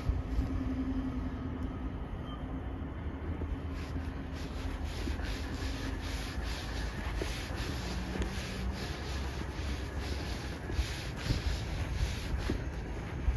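Footsteps crunching through snow at a steady walking pace, starting a few seconds in, over a constant low rumble of wind and traffic.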